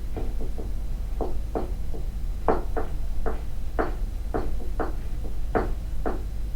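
Repeated knocks on a floor, about a dozen irregular strikes at roughly two a second, some louder than others, over a steady low hum.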